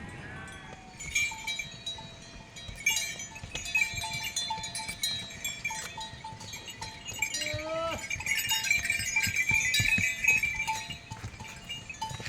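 Bells on a flock of sheep or goats clinking and ringing as the animals move, with an animal bleating twice, about half a second in and again about seven and a half seconds in.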